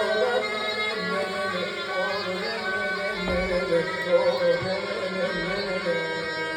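Instrumental break of a Turkish folk song: a reedy zurna melody held over the steady beat of a davul, with occasional louder drum strokes.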